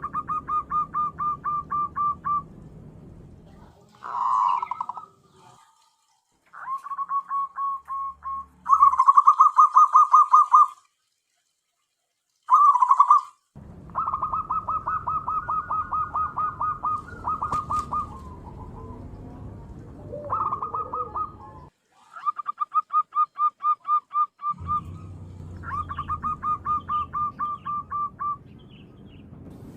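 Zebra dove (perkutut) cooing: repeated runs of quick, evenly spaced notes, about six a second, a few seconds per run. Several runs stop abruptly into silence, as in a spliced calling recording used to lure doves.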